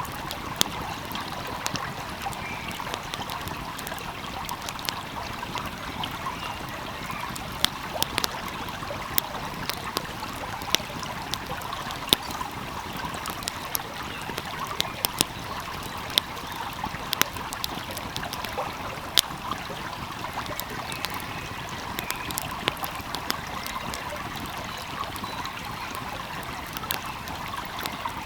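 Wood fire crackling, with sharp irregular pops several times a second, over the steady rush of a flowing stream.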